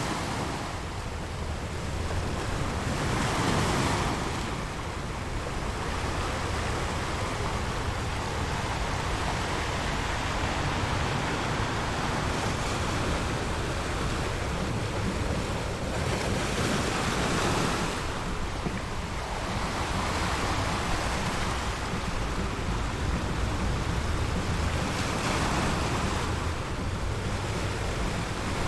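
Ocean surf: waves washing in and drawing back, the noise swelling and easing every several seconds, with wind.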